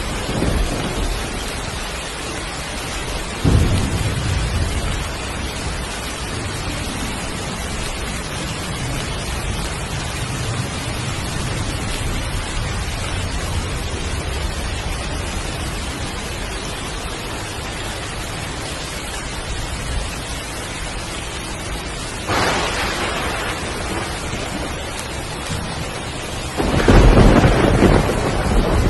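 Heavy rain pouring steadily, with thunder: a low rumble about three seconds in, a crack about 22 seconds in, and the loudest clap near the end.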